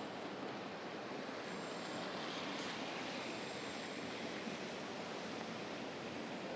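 Steady rain falling on an open umbrella held overhead, an even hiss with no distinct drops or other events.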